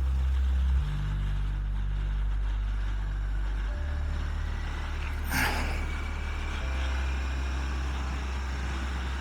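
Motorcycle engine running steadily under way, its low note shifting every few seconds. A short whoosh of noise comes about five seconds in.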